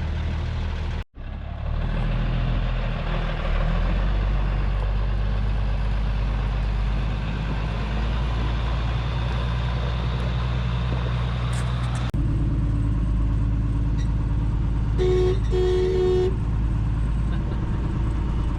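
Farm truck engine running steadily, with two short blasts of the truck's horn about three seconds before the end. The horn is nice and loud.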